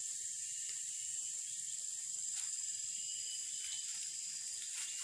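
Steady high-pitched drone of an insect chorus, unchanging throughout, with a few faint clicks underneath.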